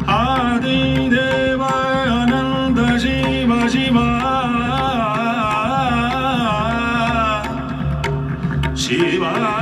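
Indian classical vocal music: a singer holds long, wavering, ornamented notes over a steady drone. The voice breaks off about three-quarters of the way through, and a new melodic line begins near the end.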